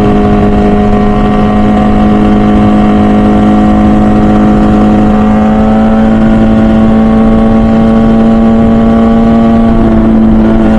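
MV Agusta Brutale 1000RR's 998cc inline-four running through its full titanium Arrow exhaust, holding a high, steady engine speed while cruising, with only a slight rise in pitch midway. Wind noise rumbles underneath.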